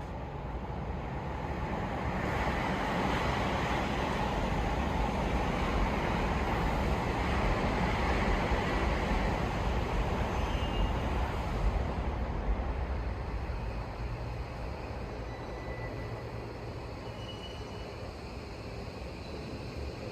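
A train passing, rising from about two seconds in, loudest in the middle and then fading away.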